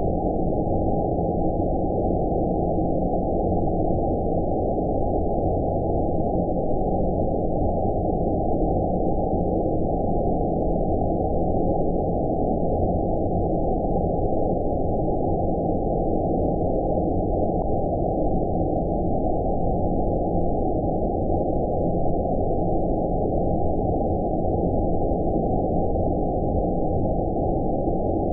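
Steady, deep rushing noise with all of its sound below a low pitch and nothing higher: a synthetic filtered-noise 'outer space' sleep sound, unchanging throughout.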